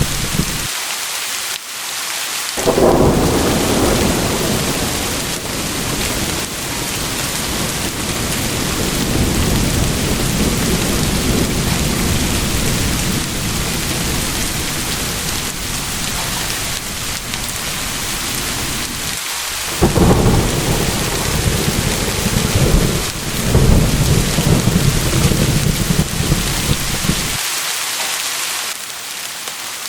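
Steady heavy rain with long, low rolls of thunder: one rumble builds about three seconds in and rolls on for around fifteen seconds, a second series of rumbles comes in the second half, and the thunder dies away near the end, leaving only the rain.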